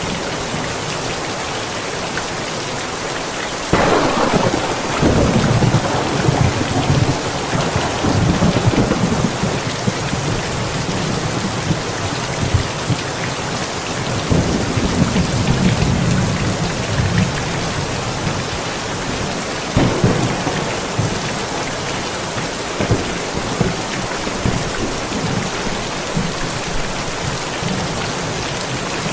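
Steady heavy rain with thunder: a sudden thunderclap about four seconds in rolls on as a low rumble for several seconds, another rumble follows midway, and a sharp crack comes about two-thirds of the way through.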